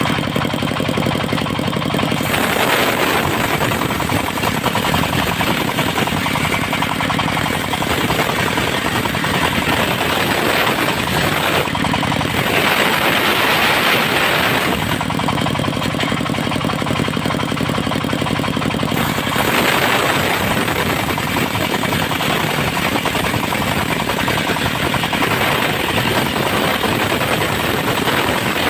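Diesel engine driving a portable circular sawmill, running steadily with a clattering knock. Several spells of louder hissing come as the circular blade cuts through mahogany logs, about 2 s in, around 13 s, around 20 s and again near the end.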